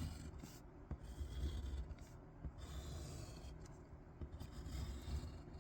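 Something scratching across paper in four or five strokes, each under a second long, with short pauses between.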